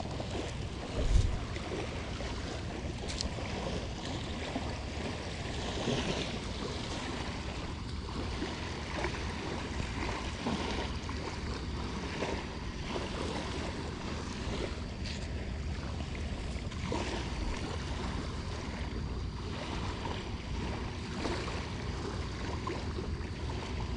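Wind buffeting the microphone over light surf washing on a sandy beach, a steady rumbling hiss with a louder low thump about a second in.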